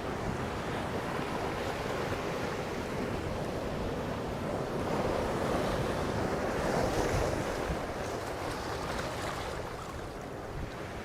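Sea waves washing on the shore, with wind buffeting the microphone; the surf swells louder a little past halfway.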